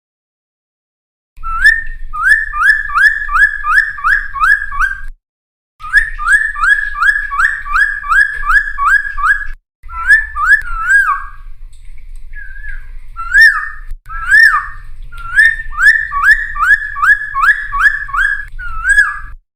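Helmeted friarbird (cucak timor) singing: runs of loud, quick rising whistled notes, about two or three a second, repeated in phrases of several seconds with short breaks between them. A low hum sits under each phrase.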